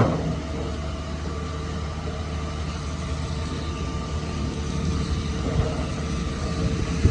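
Heavy earthmoving machinery's engine running steadily at work, with a sharp metallic clank right at the start.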